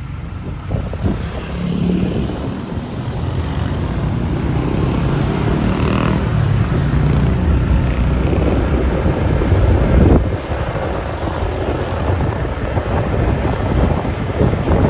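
Road traffic on a motorbike ride: vehicle engines running close by over a steady low rumble, growing louder a couple of seconds in.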